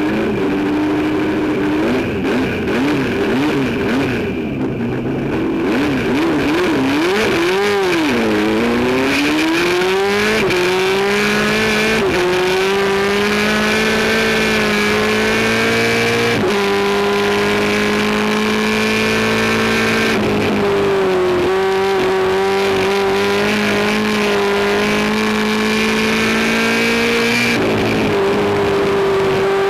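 Race car engine being revved up and down in short swings for several seconds, then pulling hard through the gears. Its pitch climbs steadily and drops sharply at each shift, about five times.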